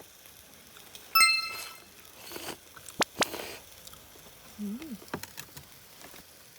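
A single ringing clink of tableware, metal or glass, struck about a second in, followed by a sharp click near three seconds and a few small clatters of eating, with a brief low murmur shortly after.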